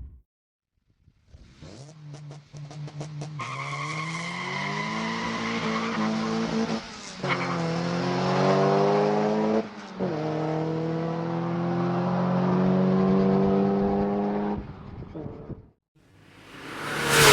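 Car engine accelerating hard through the gears. It comes in about two seconds in, its pitch climbing steadily and dropping back at two gear changes, then cuts off abruptly near the end. A loud swelling whoosh follows at the very end.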